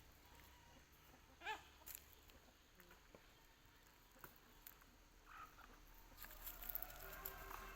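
Near silence with faint clicks and one short bird call about a second and a half in; faint chirping near the end.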